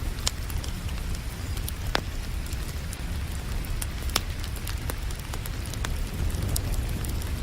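A wood fire crackling, with a handful of sharp pops and many small ticks, over steady rain and a low, continuous rumble.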